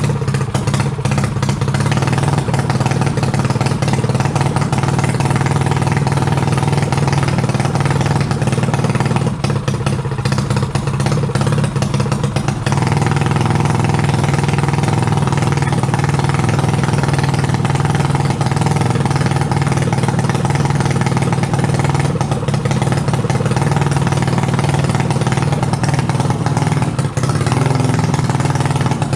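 Mini bike engine running steadily, with a slight change in tone about twelve seconds in. The owner suspects that its throttle is sticking open, which makes it run on fast.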